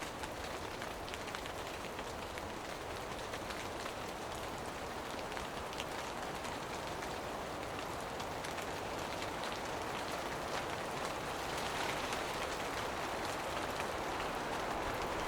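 Steady rain shower falling, with fine individual drop ticks over an even hiss, slowly growing louder.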